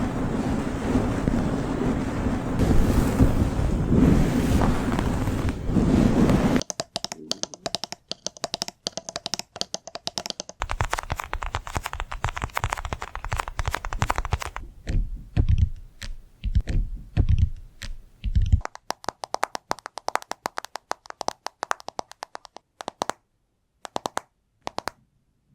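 Close-miked ASMR trigger sounds: a dense scratching or rubbing for the first six seconds or so, then stops sharply and gives way to rapid tapping and clicking in bursts with short pauses.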